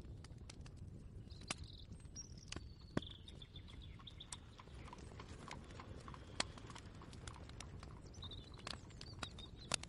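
Ambient kitchen soundscape: a low steady rumble with scattered light clicks and knocks, and a few brief high chirps.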